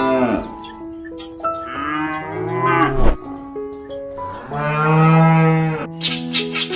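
Cattle mooing: the tail of one moo at the start, then two long moos, the second ending about a second before the end, over background music.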